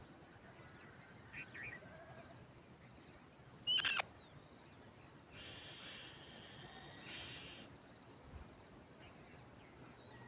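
Birds calling: a few short chirps, then one loud sharp call about four seconds in that falls steeply in pitch, followed by two longer, raspy calls.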